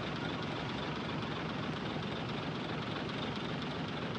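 Heavy diesel earthmoving machinery running steadily, a dense, even engine noise with no change in level.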